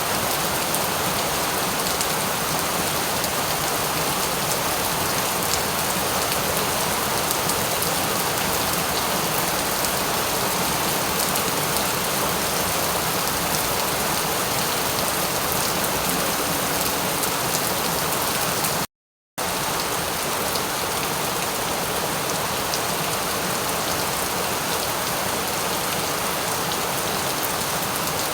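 Steady heavy rain, a dense hiss of falling water with fine individual drop ticks. It cuts out completely for about half a second roughly two-thirds of the way through, then resumes unchanged.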